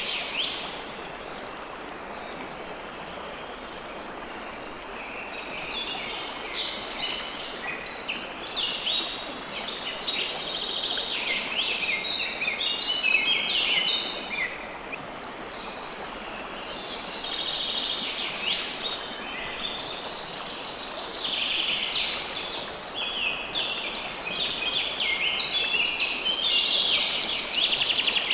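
Steady rush of flowing river water with songbirds chirping over it in busy bursts, the birds falling quiet for a few seconds early on.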